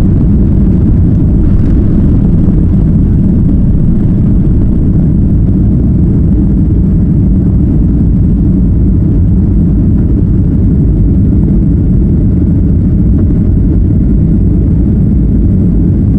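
Loud, steady low rumble of jet airliner engine noise, even throughout with no breaks or changes in pitch.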